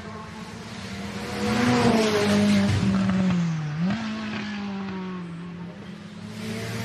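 Racing car engine running with a steady note that rises and falls. It swells with a rushing hiss for a couple of seconds, and the note dips and then jumps back up near the middle.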